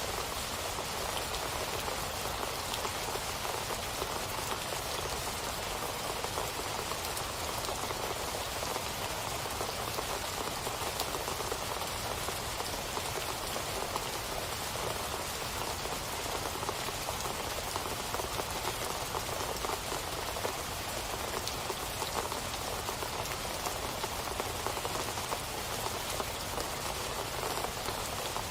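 Steady rain falling, a dense even hiss of many fine drop patters.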